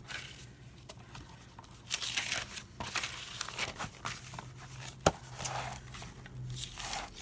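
Paper rustling and crinkling in irregular bursts as large sheets are handled, with a sharp tap a little after five seconds in.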